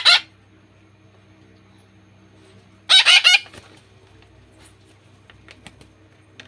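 Month-old parakeet chicks calling: a short harsh screech at the very start, then a longer squawk about three seconds in, its pitch wavering rapidly.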